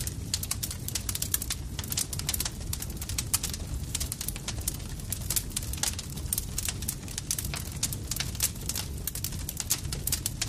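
Campfire crackling: many irregular sharp pops and snaps of burning wood over a low, steady rumble of the fire.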